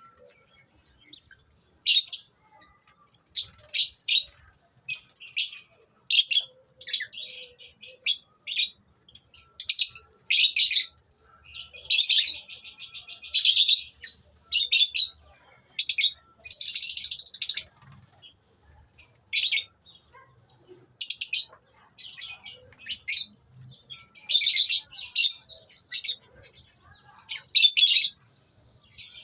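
A colony of lovebirds calling: short, shrill chirps in quick, irregular bursts, with a couple of longer chattering calls about halfway through.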